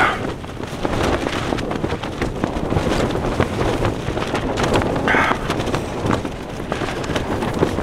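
Lanshan 2 tent's fabric flapping and cracking as gale-force wind buffets it, a rough rushing roar with many sharp snaps throughout.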